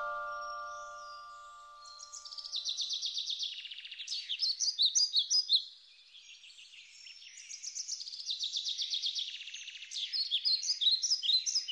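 Songbird singing, fast trills and chirps in two long phrases with a short pause between them. A few held musical tones fade out in the first second or so.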